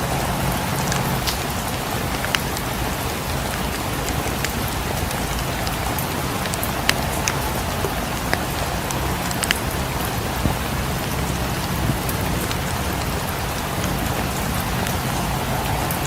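Steady rain falling against windows, mixed with a wood fire crackling in scattered sharp pops.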